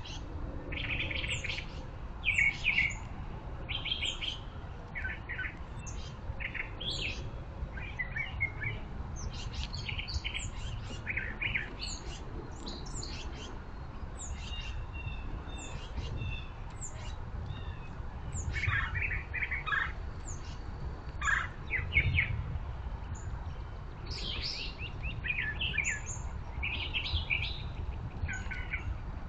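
Small birds chirping: many short, scattered call notes and twitters throughout, over a steady low background rumble.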